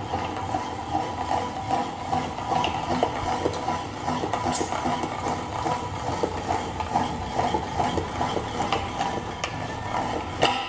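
Hand-cranked manual meat grinder being turned steadily, with continuous grinding and rattling and scattered clicks. It ends with a sharp knock just before it stops.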